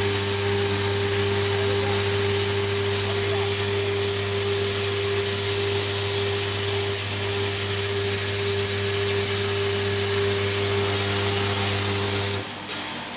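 Induction annealing machine running: a steady low hum with a few higher steady tones and a hiss above them, which cuts off suddenly near the end.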